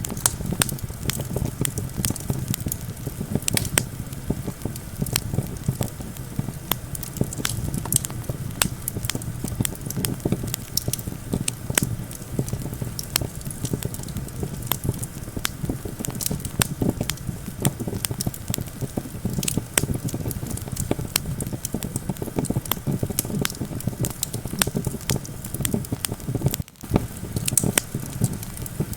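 Campfire crackling, with frequent irregular sharp pops and snaps over a low steady rumble of wind. The sound drops out for a moment near the end.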